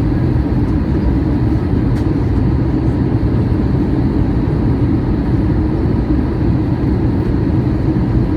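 Steady cabin roar of a Boeing 737-800 in flight on descent, the airflow and CFM56-7B engine noise heard from inside the cabin. A faint tick comes about two seconds in.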